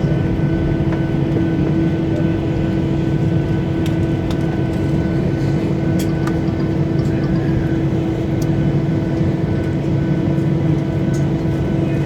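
Cabin noise of a Boeing 737-800 taxiing after landing: a steady hum from the CFM56-7B engines at idle, carrying a few clear tones, with a few faint clicks and rattles.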